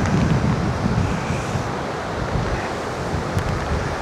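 Rough sea surf with waves of about a metre breaking, under strong gusty wind buffeting the microphone; a steady rushing noise heaviest in the low end.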